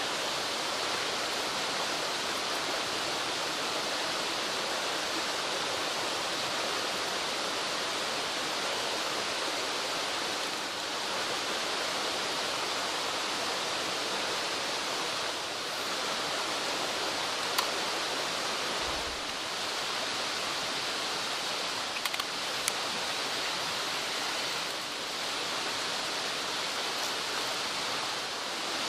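Mountain stream rushing steadily over rocks, with a few faint ticks about two-thirds of the way through.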